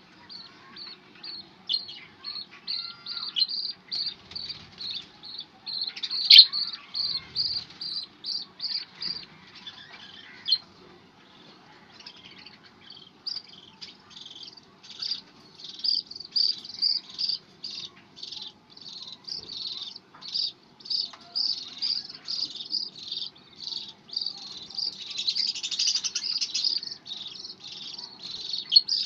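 Budgerigars chirping in a steady run of short, high chirps, about two a second, pausing briefly midway. A sharp click comes about six seconds in, and the chirping grows busier near the end.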